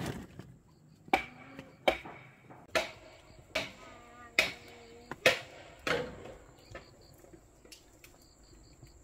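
A series of sharp tool blows, about one every 0.8 seconds, seven in all, stopping about six seconds in. This is typical of chopping or hammering during work on a fence.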